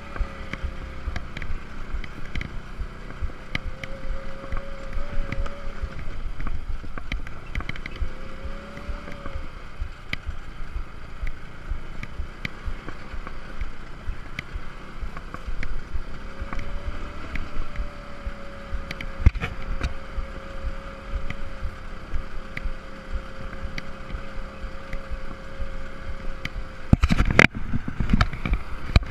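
Scooter running along a rough sandy track: a steady motor whine that rises and dips slightly with the throttle, over rumbling and knocking from the bumpy ground and wind on the microphone. Near the end there is a brief, louder jolt.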